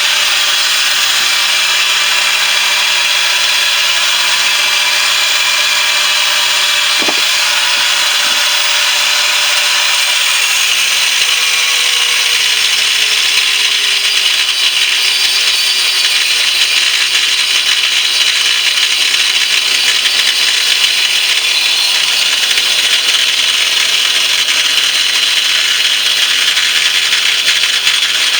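A power tool cutting into the steel shell of a central air conditioner compressor: loud, steady, harsh noise that goes on without a break.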